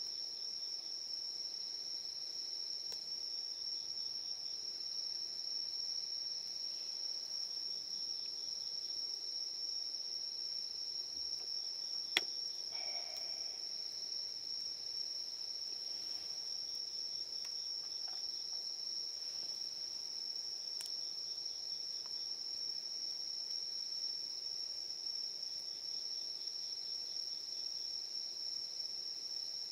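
Crickets and other night insects trilling in a steady chorus at one high pitch, with a single sharp click about twelve seconds in.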